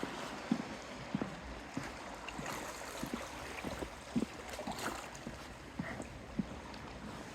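Walking footsteps at a steady pace, about three steps every two seconds, over a steady rushing background noise.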